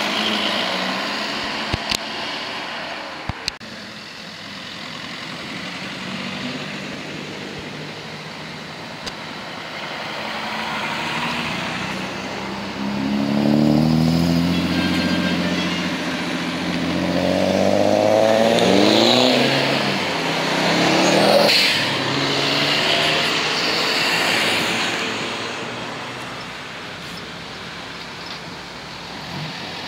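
Modified cars driving past one after another. A car's engine grows louder from about the middle, then revs up with its note climbing sharply a few times before fading away.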